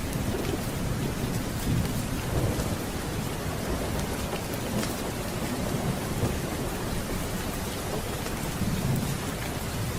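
Steady rain with low rolling thunder that swells several times, most strongly near the start and again near the end, over faint scattered ticks.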